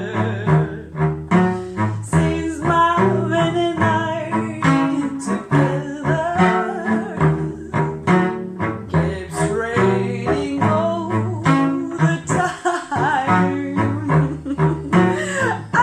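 A voice singing a slow melody over self-played plucked-string accompaniment, with a plucked low note on most beats under the sung line.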